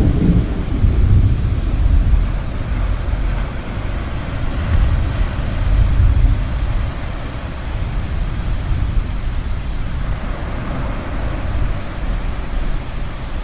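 Low rolling thunder rumbling over the first half and easing off, over a steady wash of ocean waves that swells now and then.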